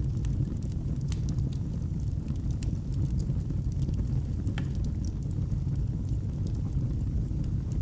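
Logs burning in a fireplace: a steady low sound of the flames, with scattered sharp crackles and pops throughout.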